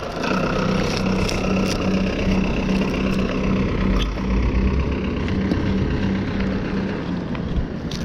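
A motor vehicle's engine running at a steady idle, its hum pulsing evenly a few times a second and fading out near the end.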